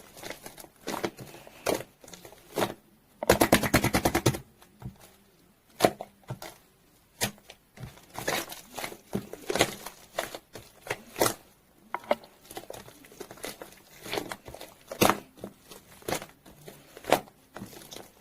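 Foamy green slime being squished and pressed by hand: irregular wet clicks and pops from air pockets in the slime, with a rapid run of crackling about three seconds in that lasts about a second.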